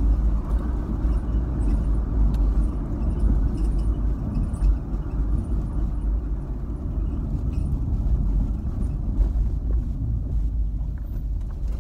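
Steady low rumble of a car heard from inside the cabin, even throughout with no distinct events.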